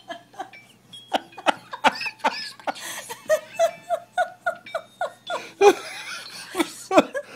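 A person laughing hard off-camera, a long run of short, rhythmic laughs, about three a second.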